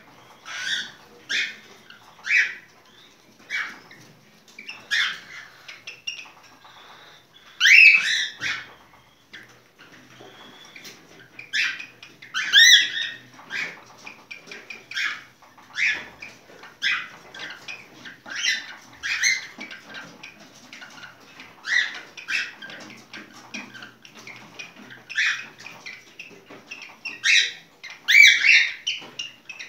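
Cockatiel singing its courtship song: short, sharp whistled chirps repeated every second or so, with louder runs of calls a few times.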